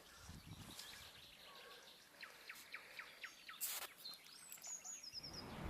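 Faint birdsong: a run of short chirps, then higher, quick chirping calls near the end, with one brief sharp sound in between. Low wind rumble on the microphone builds near the end.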